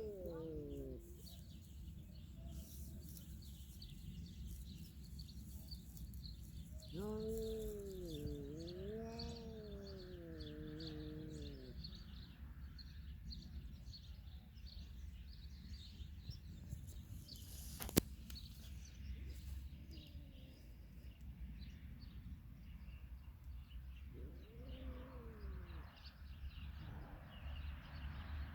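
Domestic cat giving one long drawn-out meow whose pitch wavers up and down for about five seconds, then a shorter falling meow near the end. Faint bird twittering and a steady low hum run underneath, with a single sharp click partway through.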